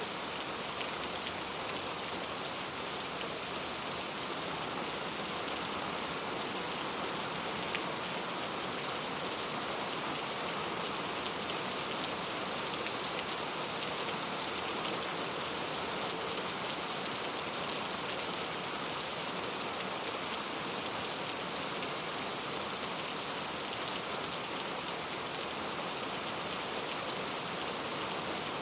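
Gentle rain falling steadily, an even hiss of rain on a surface with scattered drop ticks; one sharper drop tick about two-thirds of the way through.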